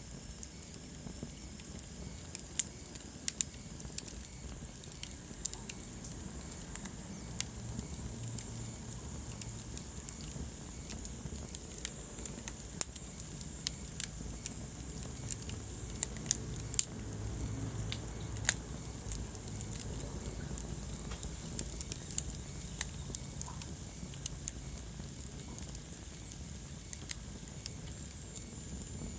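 Wood fire burning in a fireplace, crackling, with sharp pops scattered irregularly over a low, steady rush of flame; a cluster of louder pops comes about halfway through.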